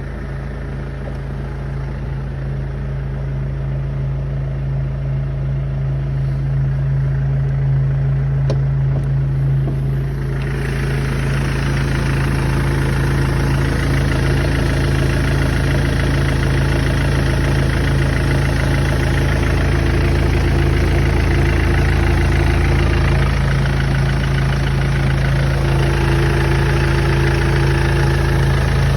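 Mercedes E 220 CDI's four-cylinder turbodiesel idling just after a cold start, with the odd running noises that the owner is querying. About ten seconds in, the sound turns louder and harsher.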